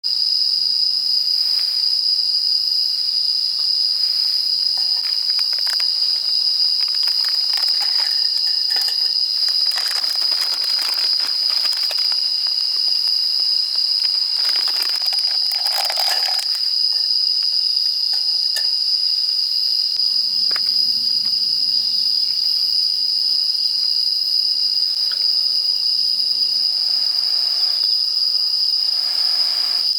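Crickets and other autumn night insects chirring in one steady high-pitched trill that never breaks, with a few faint light clicks and knocks around the middle.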